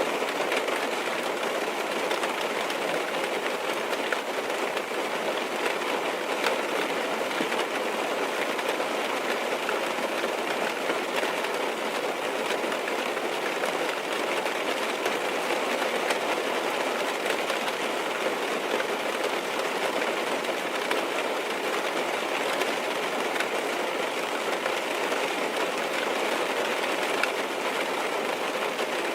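Rain falling steadily on a car's roof and windows, heard from inside the car: a dense, even patter of drops with no change in strength.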